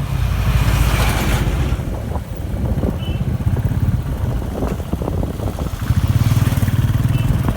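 Motorcycle engine running steadily while riding, its hum wavering slightly, with bursts of wind rushing over the microphone about a second in and again near the end.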